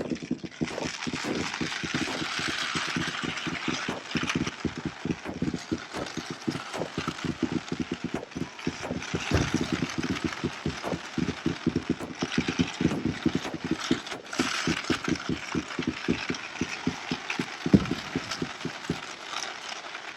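Fireworks going off in a fast, unbroken string of bangs with crackling between them, and one louder bang near the end.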